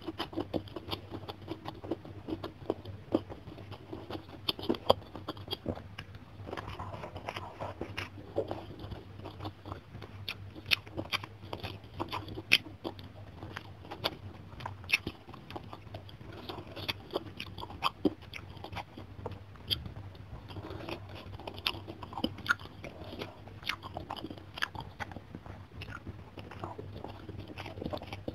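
Close-miked eating: a person chewing and crunching mouthfuls of fish and rice, with frequent irregular sharp wet clicks, over a faint steady low hum.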